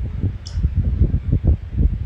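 Wind buffeting the microphone: an irregular, gusting low rumble, with one brief higher-pitched sound about half a second in.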